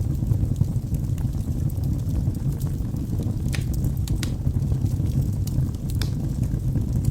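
Wood logs burning in a fireplace: a steady low rumble of flame with scattered sharp crackles and pops, a few louder snaps in the second half.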